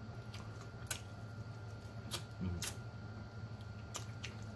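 Close-miked eating of fried chicken wings: a few sharp, wet mouth clicks and smacks while chewing, with a brief low 'mm' about two and a half seconds in.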